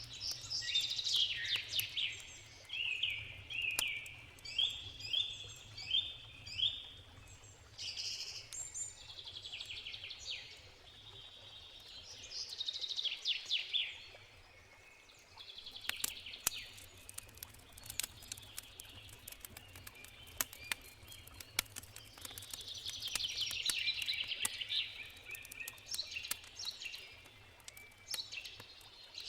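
Birds singing in quick repeated phrases, with the sharp pops and crackles of a wood campfire scattered throughout and growing more frequent in the second half.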